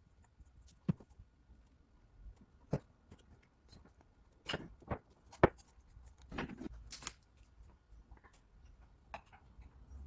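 Small wooden pieces being handled: a scattered series of light knocks and clicks at uneven intervals, the sharpest a little past the middle.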